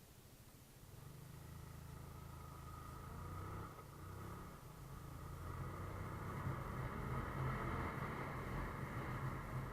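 A motor vehicle's engine running, growing louder from about a second in and easing slightly near the end.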